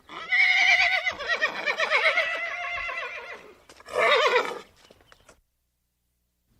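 Horse whinnying: one long neigh of about three and a half seconds with a quavering, wavering pitch, then a shorter whinny.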